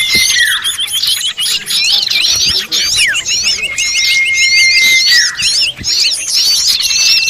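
A dense chorus of many small birds chirping and calling over one another, with long steady high whistles and quick falling notes among the chirps. This is a bird-lure recording of noisy small birds, played to draw wild birds in.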